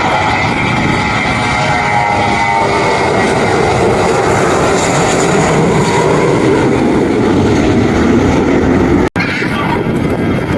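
Airplane engines running loud and steady, a dense rushing roar with a faint whine early on, briefly cutting out about nine seconds in.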